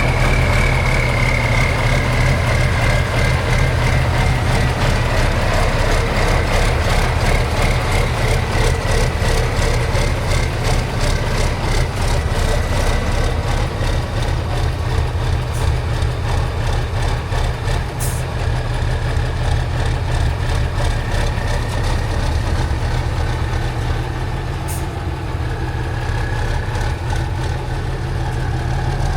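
Heavy off-road competition truck's diesel engine running steadily at low revs, with a faint high whine that slowly falls in pitch over the first half.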